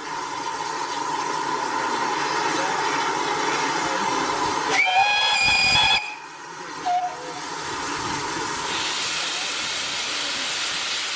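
Steam locomotive hissing steadily. About five seconds in comes one short, shrill whistle blast of a little over a second, which cuts off sharply.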